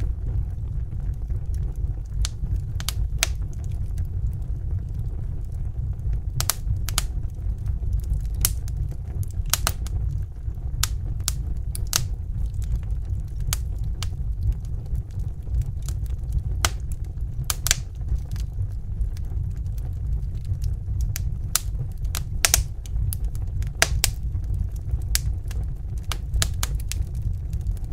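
Wood fire in a fireplace crackling: irregular sharp snaps and pops over a steady low rumble of burning.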